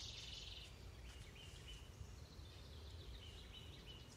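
Faint outdoor birdsong: a songbird's trilled phrase right at the start, then fainter chirping phrases, over a steady low rumble.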